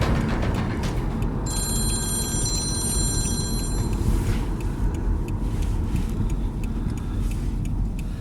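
A phone ringing for about two and a half seconds, a steady electronic tone, over the constant rumble of a car cabin on the move.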